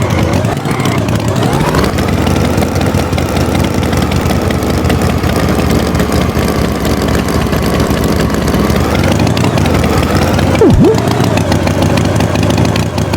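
Animated tractor's engine sound effect: the engine revs up a second or two in, runs steadily, then eases down near the end, followed by a quick down-and-up sliding whistle.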